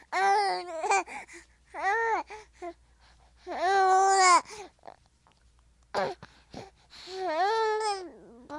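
A baby vocalizing in a string of short, high-pitched calls between short pauses, each rising and then falling in pitch, partway between babbling and fussy crying.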